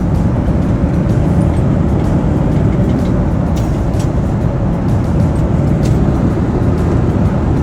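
Loud, steady low rumble of a vehicle in motion, heard from inside it.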